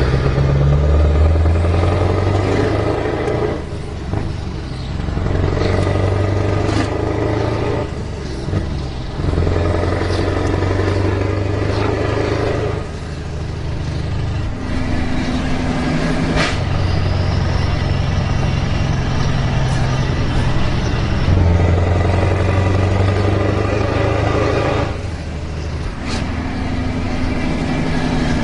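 Scania V8 diesel truck engine running hard, its note swelling and dropping again several times, with brief dips in between and a few sharp clicks.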